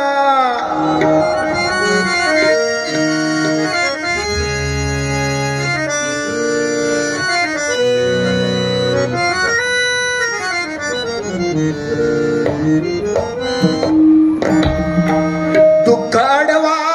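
Harmonium playing an instrumental interlude of held, stepping notes over hand-drum strokes. About ten seconds in, the melody runs quickly down and back up.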